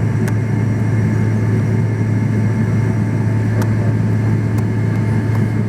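Steady airliner cabin noise: the drone of the jet engines and airflow heard from inside the passenger cabin, with a strong low hum and a few faint ticks.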